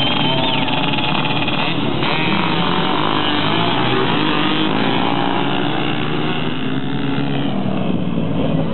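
Several racing motorcycle engines running hard together, their pitches overlapping and gliding up and down as the riders accelerate and shift, with a brief high whine near the start.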